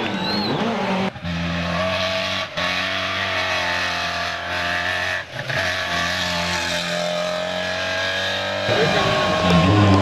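Race car engine held at fairly steady high revs, dropping out briefly three times, then revving up and down quickly near the end.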